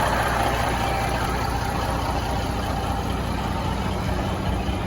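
Peterbilt water truck's diesel engine idling steadily.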